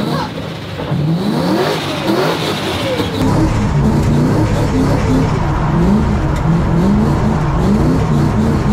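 Supercharged Boss 302 V8 of a Ford Mustang drift car revving hard, its pitch sweeping up again and again, a new climb well under a second after the last. It grows louder about three seconds in.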